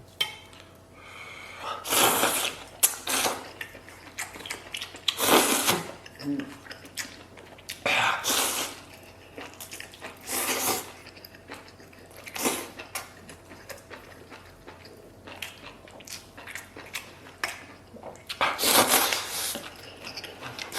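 A person eating broth-soaked spicy food with loud slurps every few seconds, and wet chewing and mouth clicks in between.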